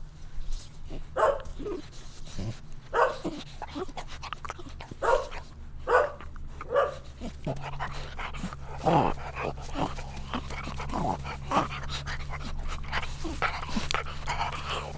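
Dog barking in short separate barks, about one a second at first, then faster and more tightly packed in the second half.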